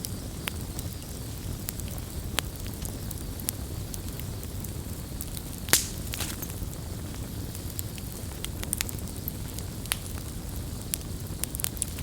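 Wood fire burning with a steady low rumble and scattered sharp crackles and pops, the loudest pop a little past halfway.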